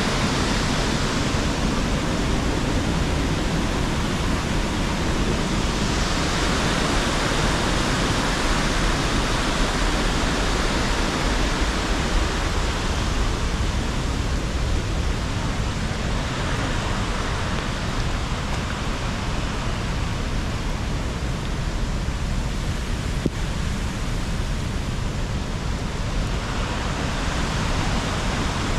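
Waterfall and river water rushing steadily, an even, unbroken wash of noise.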